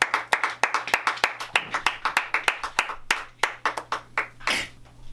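A few people clapping: separate, distinct claps rather than a dense crowd's applause, a few a second, dying away about four seconds in, followed by a short hiss.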